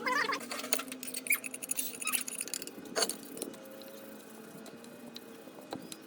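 A run of light clicks and knocks of small hard objects being handled, busy for the first few seconds and then sparse, over a faint steady hum.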